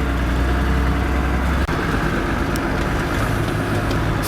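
Diesel engine of a GAZ-66 off-road truck running under way in rear-wheel drive on the higher gears, a steady low drone. About a second and a half in it breaks off briefly and then carries on at a slightly higher note.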